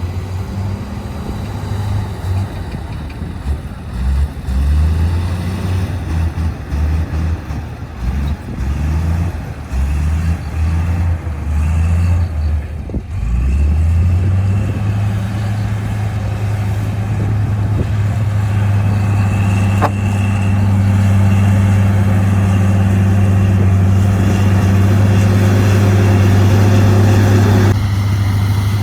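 Heavy dump truck's diesel engine running, uneven and pulsing at first, then rising about halfway through to a steady higher speed that it holds, growing a little louder near the end.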